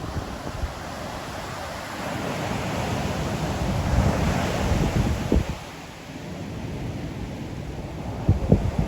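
Ocean surf: a wave builds up, breaks and washes back, loudest about four to five seconds in. Wind buffets the microphone in low thumps near the end.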